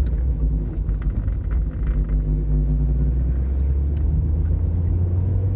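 Mazda MX-5's four-cylinder engine running steadily under way, with tyre and road rumble, heard from inside the car; the engine note rises slightly near the end.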